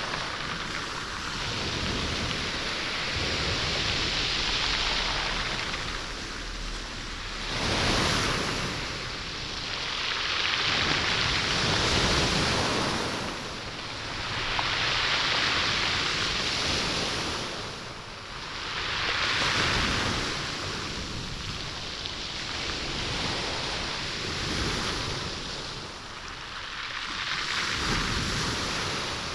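Sea waves surging and washing back over a stony beach, with the stones rolling and clattering in the surf. The wash swells and ebbs every few seconds.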